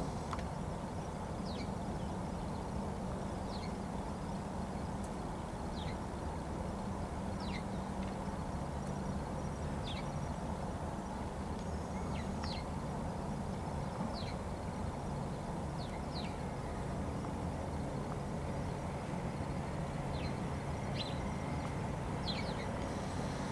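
Short, thin, high chirps that fall in pitch, repeated about every one to two seconds by a small bird, over a steady low rumble of distant traffic.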